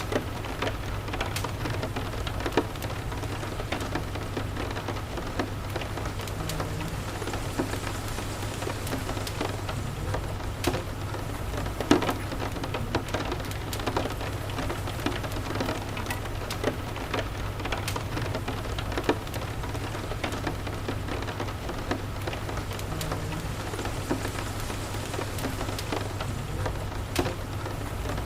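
Steady rain with scattered sharp crackles and pops of a wood fire, over a steady low rumble.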